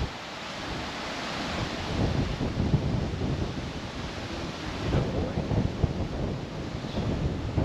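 Strong gusting wind buffeting the microphone: a heavy low rumble that swells about two seconds in and stays up.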